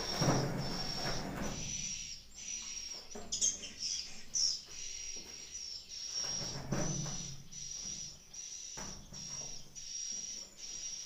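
Edible-nest swiftlet calls: a high chirping repeated in an even pattern, with a few brighter chirps about four seconds in. Rustling and scraping noises come twice, near the start and about seven seconds in.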